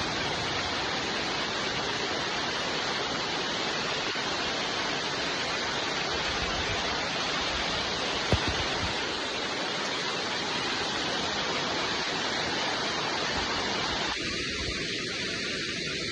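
Steady hiss of rain, with one sharp tap about halfway through. A couple of seconds before the end the sound turns thinner and more hissy.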